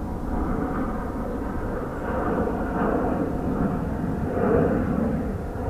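Jet aircraft engine noise: a steady, continuous sound that swells and eases a little.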